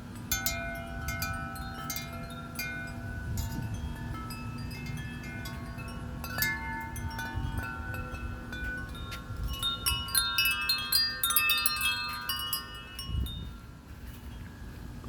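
Several wind chimes ringing in gusty wind, many overlapping tones struck again and again. The ringing grows busiest and loudest about two-thirds of the way in, then thins out near the end, with a low wind rumble throughout.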